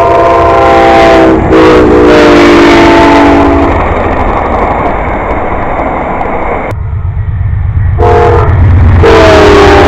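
Locomotive air horn sounding several notes at once in long blasts, dropping in pitch about a second and a half in as the train passes, with a rushing train rumble between blasts and a second blast near the end that again falls in pitch.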